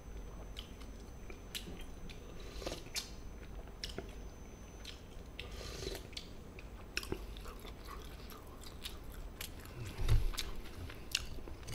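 A person chewing and biting food, with scattered short crisp clicks and a louder low thump about ten seconds in.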